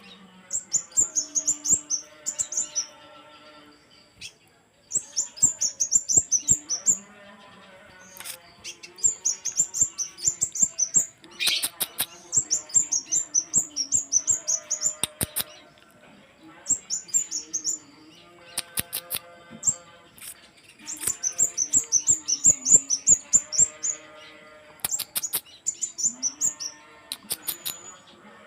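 Scarlet minivet (sepah raja) singing: bouts of rapid, high-pitched chirps, each lasting two to three seconds, repeated again and again with short pauses between them. Fainter, lower sounds with steady tones run underneath.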